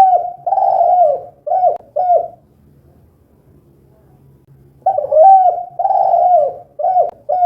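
Spotted dove cooing loudly in its two-'kuk' song type: a phrase of drawn-out coos ending in two short clipped notes. The phrase is repeated about five seconds later.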